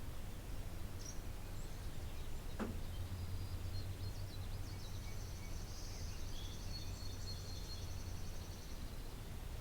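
Outdoor garden ambience: several songbirds calling, with a rapid high trill running through the second half, over a steady low hum.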